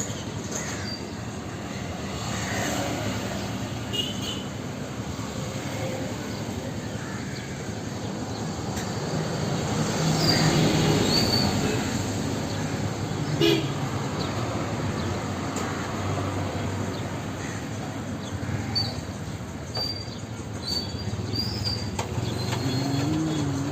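Steady rumbling background noise with a few short, high chirps and a sharp click about two-thirds of the way through.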